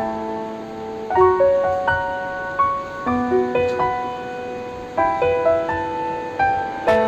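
Background music: a slow, gentle piano melody, notes struck about every half second and left to ring.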